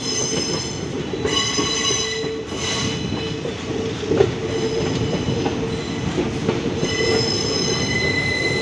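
Passenger train coaches running round a curve, heard from an open coach door: a steady rumble of the wheels on the track, with a high metallic squeal of the wheels on the curved rail coming and going. A single sharp clack comes about four seconds in.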